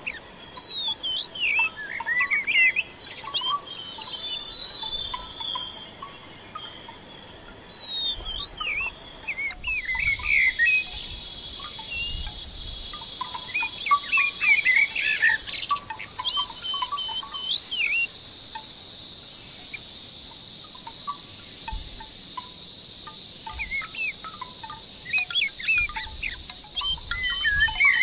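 Small birds chirping and singing in quick, high twittering phrases, with a steady high buzz joining about ten seconds in.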